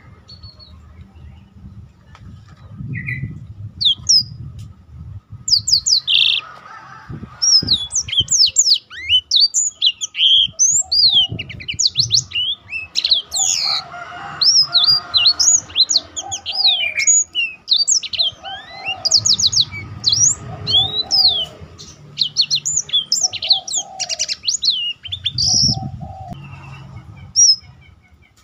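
Blackthroat (black-throated canary) songbirds singing a long, fast, varied twittering song of quick high chirps, sweeping whistles and trills, with short lower notes repeated in the second half and a low rumble underneath at times.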